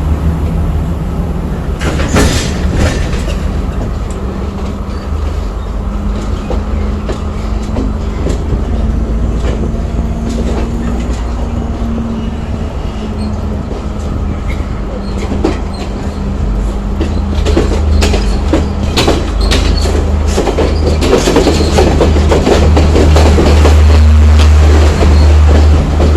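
Train running on the rails, with a steady low rumble and scattered sharp clicks of wheels over rail joints. It grows louder from about two-thirds of the way in.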